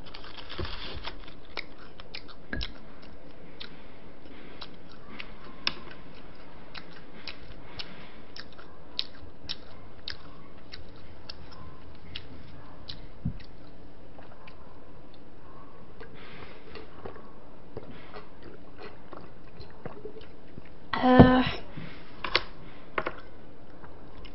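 Close-up chewing and biting of a fried hash brown, with many small crunches and wet mouth clicks. About three-quarters of the way through, a brief voiced sound from the eater stands out as the loudest sound.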